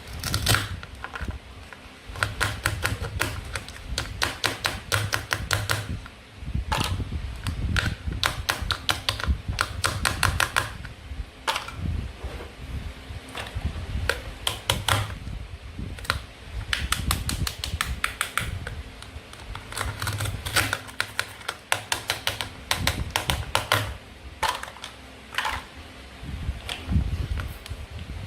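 Toy fruit and vegetables being cut and handled with a toy knife: quick clusters of sharp plastic clicks and taps, broken by short pauses, over low handling knocks.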